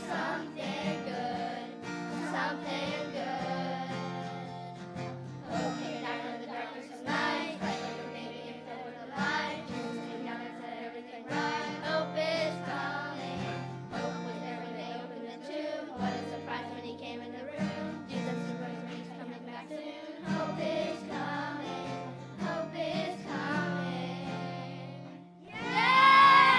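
A song sung by a group of voices over instrumental accompaniment with held low notes. Near the end a louder, high-pitched voice sweeps upward.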